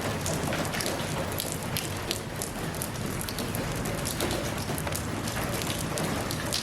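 Steady rain falling, an even hiss of rainfall with many individual drops pattering on a surface.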